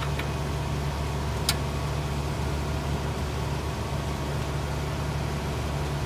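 Steady low engine hum of a van idling, with one sharp click about a second and a half in.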